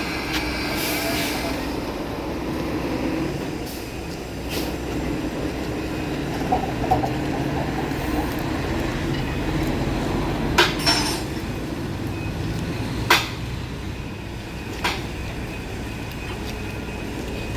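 Steady low mechanical rumble with a handful of short, sharp metallic clinks and knocks, several of them in pairs about half a second apart, from the handling of a retired SMRT C151 train car.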